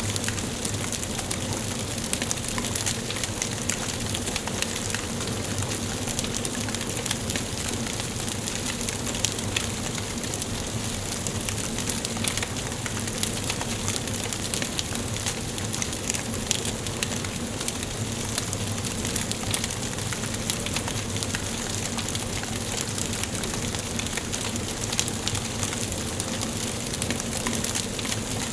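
Wood fire burning in a fireplace, crackling and popping with many small sharp snaps over a steady hiss.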